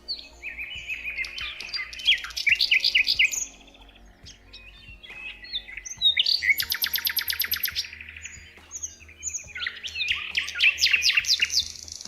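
Songbirds singing in three phrases of quick chirps and whistled notes, the middle phrase a fast, even trill, with short quieter gaps between them.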